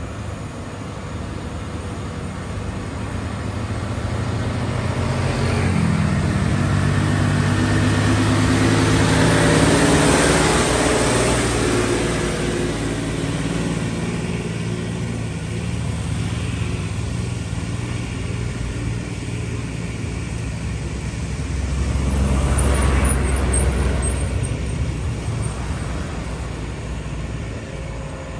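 Heavy diesel truck engine passing close: it revs up about five seconds in, swells to its loudest around ten seconds and fades. A second heavy vehicle rumbles past around twenty-three seconds in.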